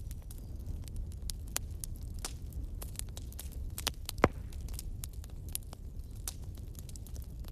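Fire crackling, with many small irregular pops over a steady low rumble; one sharper, louder pop about four seconds in.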